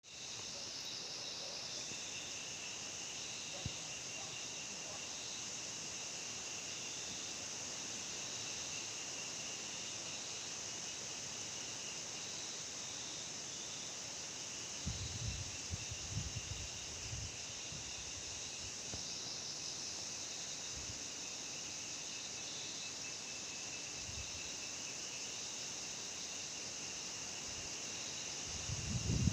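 Steady chorus of insects chirring, several high, even bands running on without a break. A few short low bumps come around the middle and again at the end.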